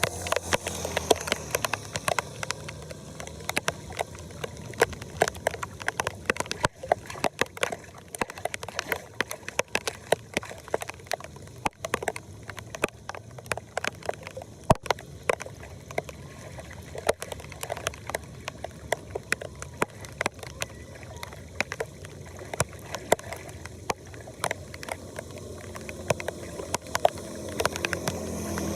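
Floodwater sloshing and gurgling at a storm drain, with frequent sharp irregular clicks and splashes.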